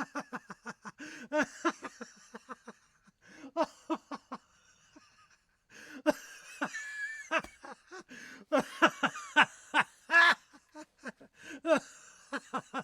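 A person laughing in repeated bursts of short, rapid pulses, with a brief pause about five seconds in.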